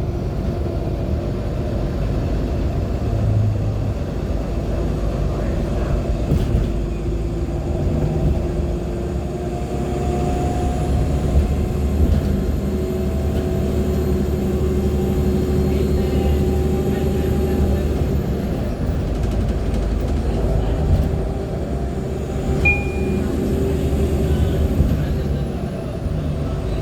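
Cabin noise aboard a NOVA LFSA hybrid articulated bus under way: a steady low rumble from its Cummins ISL9 diesel and drivetrain, with held whining tones. A faint high whistle rises and holds twice, and a brief high squeak comes a few seconds before the end.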